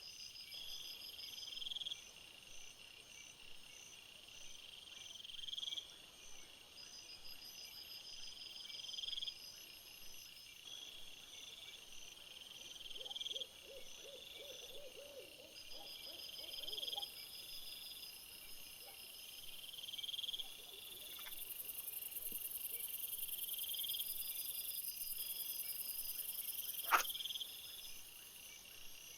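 Insects, such as crickets, chirping in short pulsed trills that repeat every few seconds, with a steady high-pitched buzz joining for the second half. A low, faint trill comes in the middle, and a single sharp click sounds near the end.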